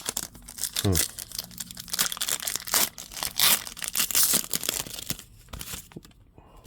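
Trading-card pack wrapper being torn open and crinkled, a dense run of crackles that stops about six seconds in.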